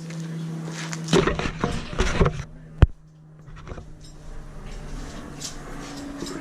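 Metal clanking and knocking, as of tools and parts being handled, over a steady hum, with one sharp knock near the middle.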